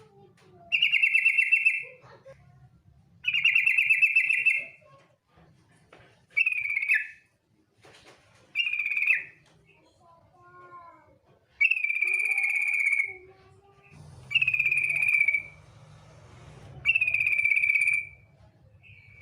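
Female yellow-vented bulbul (trucukan) giving its trilled 'ngetir' call: a rattling phrase of about a second, repeated seven times roughly every two and a half seconds, with a few faint chirps between.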